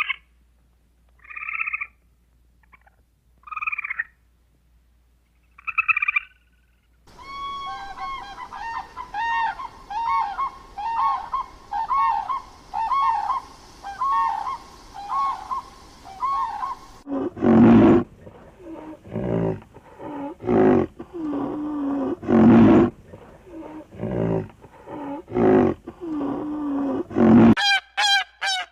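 A run of animal calls, one kind after another: three short calls from a grey squirrel, then a long series of repeated calls from a common crane. About seventeen seconds in, a string of loud, lower-pitched calls from another animal begins, and near the end a black swan starts calling.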